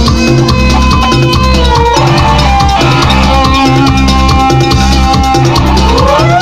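Live tropical dance band playing: a lead guitar solo of sustained, bending notes over steady bass and percussion, with a rising slide near the end.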